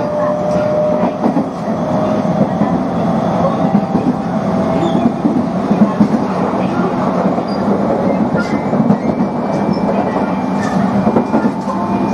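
Tobu 20400 series electric train running on the track, with a dense steady rumble, a faint steady whine and a few clacks of the wheels over rail joints.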